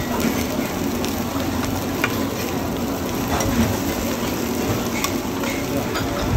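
Oyster omelette frying and sizzling on a large flat black griddle, with metal spatulas scraping and clinking against the pan every so often as the egg is turned and pushed around.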